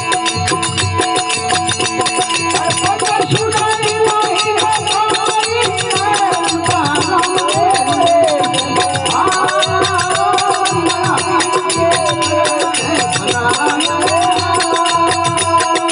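Rajasthani desi bhajan music: a steady drone from the desi veena under fast, even jingling percussion. From about three seconds in, a wavering melody line comes in and rises and falls.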